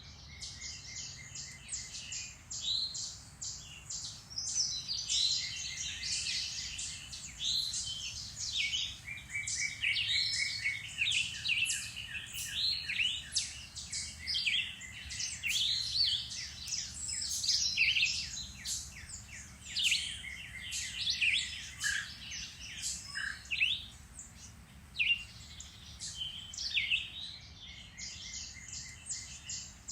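Several songbirds singing and calling at once in woodland: a dense, overlapping mix of chirps, whistled phrases and rapid trills.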